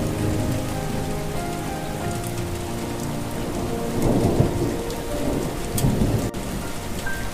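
Steady rain with rolling thunder, two rumbles swelling about four and six seconds in, under a soft melody of held notes.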